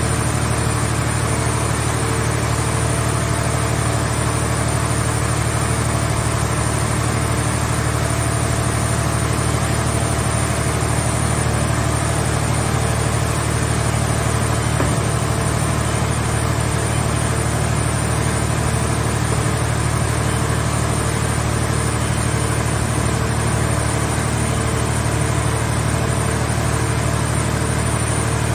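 Mobile car-shell baler's engine running steadily at an even speed, with a faint regular pulsing in its note.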